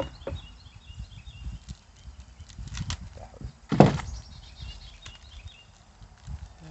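Scattered handling clicks and knocks from hands working with wires and parts, with one louder knock just past the middle, over a low rumble. Faint short high chirps sound in the background twice.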